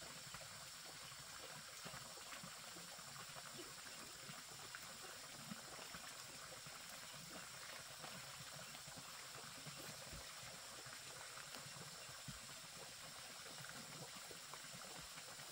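Steady light rain falling on vegetation, a faint even hiss.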